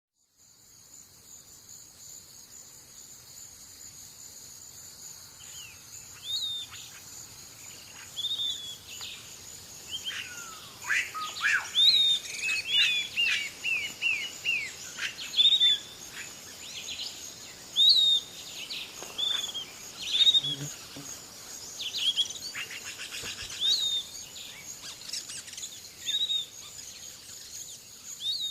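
Songbirds chirping and calling in short repeated notes, busiest in a quick run of chirps near the middle, over a steady high-pitched insect drone that fades in at the start.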